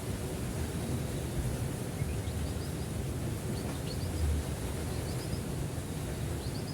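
Steady low rumble of wind on the microphone. From about two seconds in, faint high chirps come in small clusters of three or four, roughly once a second.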